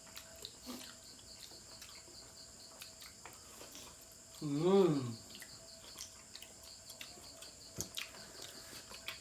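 Quiet eating sounds with small scattered clicks and taps, under a steady high insect chirring. About halfway through, one voiced 'mmm' rises and falls in pitch.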